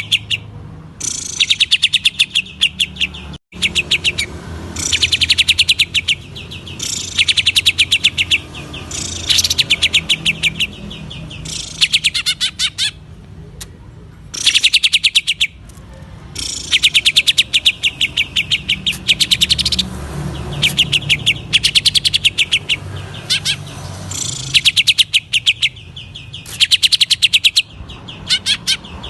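Green leafbird (cucak ijo) singing in rapid stuttering runs of quickly repeated high notes, each run lasting one to two seconds with short pauses between, in the 'ngentrok' style.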